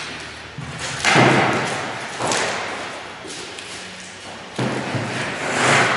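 A series of about five heavy thuds, irregularly spaced a second or two apart, from work on subfloor sheets being laid and fastened down.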